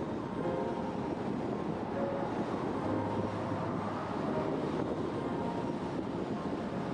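Steady wind and road noise from riding an Emmo Zone GTS electric bike, with a low hum that comes in about three seconds in and fades again about two seconds later.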